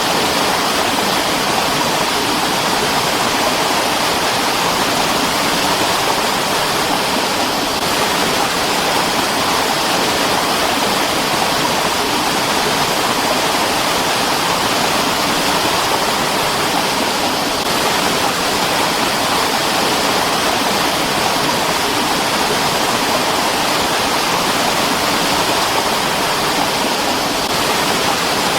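Mountain stream water rushing steadily over rocks, a dense, even hiss without a break.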